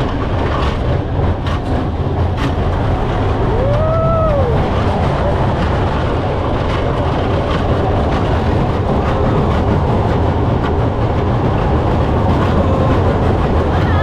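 Steady rumbling and clattering of a vehicle in motion, with a short rising-and-falling tone about four seconds in.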